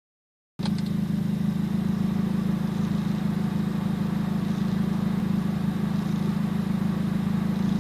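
Mazdaspeed Miata's turbocharged four-cylinder engine idling steadily, a constant low drone.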